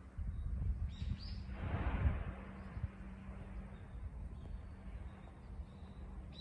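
A bird gives a short high chirp, rising in pitch, about a second in, with faint further chirps later. Under it runs a steady low outdoor rumble, and a brief rush of noise swells and fades just after the chirp.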